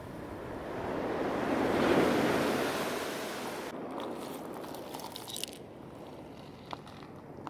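Ocean surf: a wave washes in, its rush swelling to a peak about two seconds in and then fading. A few faint crackles and small clicks follow in the second half.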